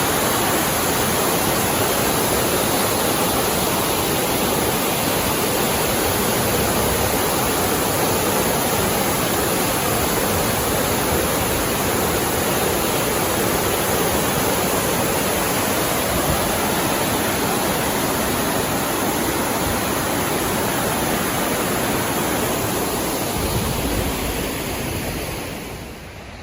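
Mountain stream rushing steadily over rocks, a dense even noise of water that drops off in level near the end.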